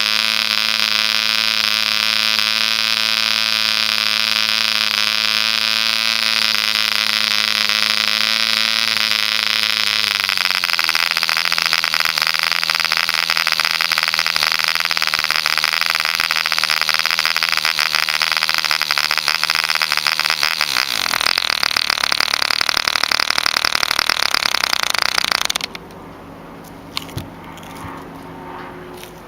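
Mills 0.75 cc contra-piston model diesel engine running at high speed with a steady buzz. Its pitch drops a step about ten seconds in and again about ten seconds later, then it cuts out suddenly near the end.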